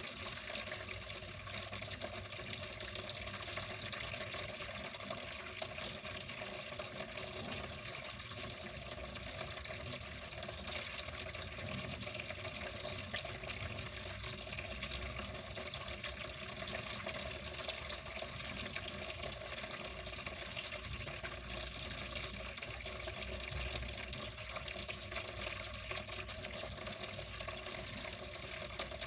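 Water flowing steadily, an even, unbroken rush with no pauses.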